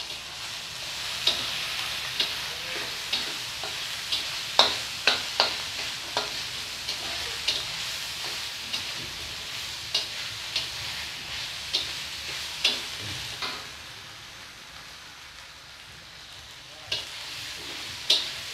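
Dried Bombay duck fish sizzling as it is stir-fried in an oily masala in a metal wok, with the spatula scraping and knocking sharply against the pan every second or so. The sizzle dies down a little for a few seconds near the end.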